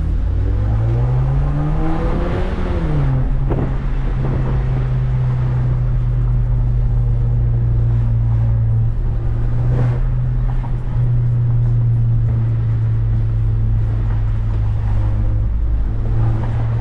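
Straight-piped 2018 Mercedes-Benz CLA250's turbocharged four-cylinder exhaust under way: the revs climb for about two seconds, fall back, then settle into a steady low drone.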